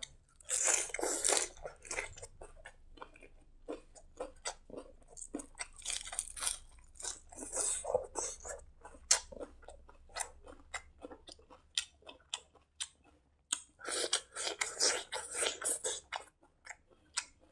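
A mouthful of rice eaten by hand being chewed close to the microphone: wet smacking and clicking mouth sounds that come in bursts, with short pauses between.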